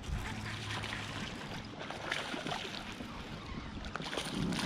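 Water splashing and sloshing around a kayak as a hooked bass is fought toward the boat.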